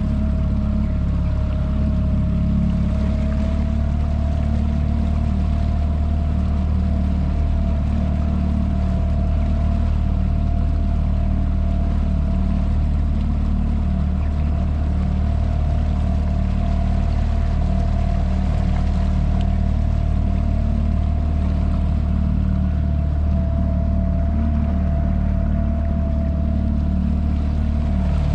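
Motorboat engine running steadily at an even speed: a constant low drone with a faint steady whine above it.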